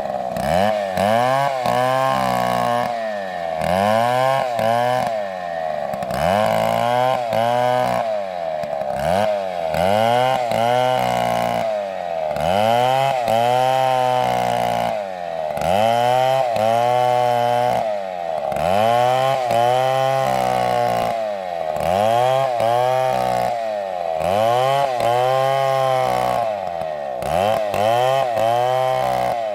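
STIHL MS720 two-stroke chainsaw running loud, its engine pitch falling and climbing back again about every two seconds as it is revved and loaded in repeated cuts.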